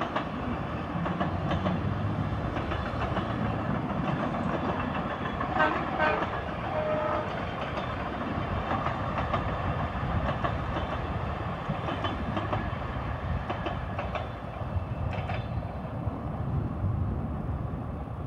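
Long Island Rail Road M3 electric multiple-unit train passing at a distance: a steady rumble of wheels on track, with scattered clicks and a brief higher tone about six seconds in.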